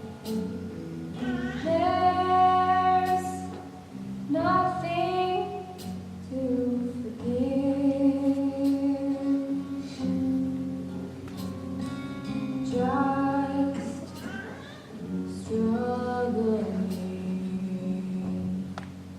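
A female voice singing a slow song in held, sustained phrases over a steady low accompaniment.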